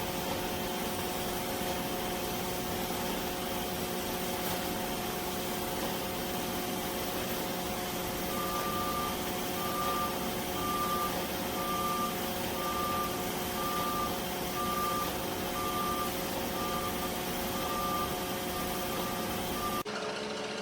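Robot vacuum running with a steady motor hum and whir. About eight seconds in, a short high beep starts repeating, roughly once every 0.8 s.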